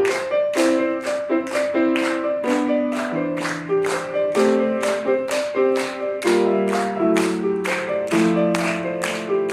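Solo piano playing an upbeat melody over steady repeated chords, about two to three strokes a second.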